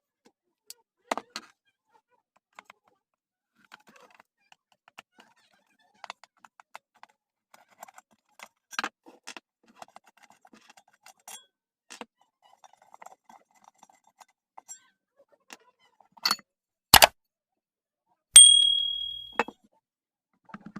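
Metal tools and parts clinking and tapping as a ceiling fan is worked on, with scattered light clicks and knocks. Near the end a metal part is struck hard and rings for about a second.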